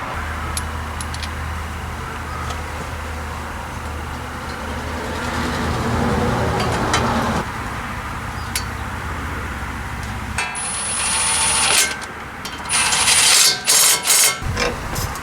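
Hand tools scraping and brushing old grease and dirt off steel kingpin cap plates, over a steady low hum. In the last few seconds come several loud hissing bursts, one with a high whistle.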